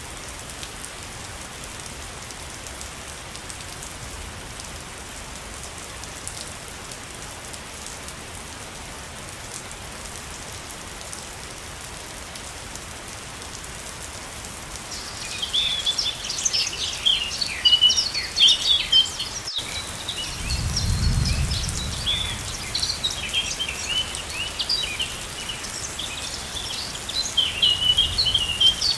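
Waterfall's steady rush of falling water. From about halfway, songbirds chirp rapidly over it, with a short low rumble a few seconds later.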